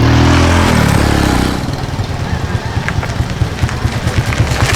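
Motorcycle engines running close by. A steady engine note for the first second and a half gives way to a fast, even, low chugging.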